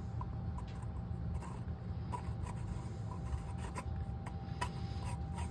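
Threaded pipe fitting being turned by hand onto its threads: faint rubbing with a run of small clicks that come more often toward the end, over a steady low hum.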